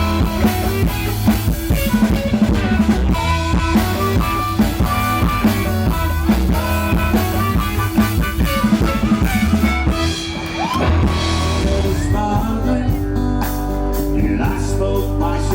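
Live rock band music with drum kit and electric guitar. The band's sound changes about twelve seconds in.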